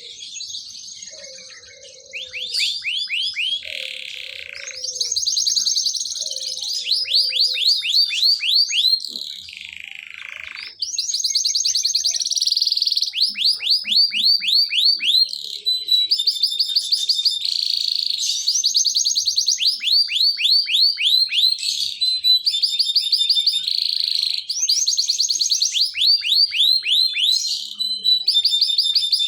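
Domestic canary singing a long, unbroken song of fast trills, each made of rapidly repeated downward-sweeping notes, the kind of song played as a lure to set other canaries singing. It is quieter for the first ten seconds or so, then louder.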